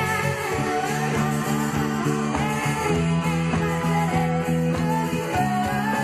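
Rock band playing, with guitar to the fore.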